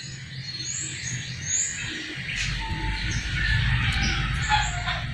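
Small birds chirping in short, high calls over a steady background hiss, with a low rumble coming in about two seconds in.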